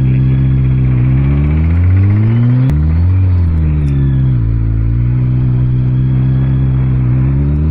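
Motorcycle engine pulling up through the revs, then a gear change with a short click about two and a half seconds in, after which the revs ease off and settle to a steady cruise before climbing again near the end.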